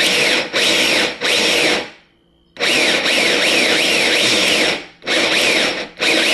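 RC crawler's electric motor and two-speed transmission whining under throttle in several bursts with short drops, a pause about two seconds in, and a repeating falling squeal running through each burst. It is the sign of a shift servo not holding the transmission tightly enough in gear, as the owner judges.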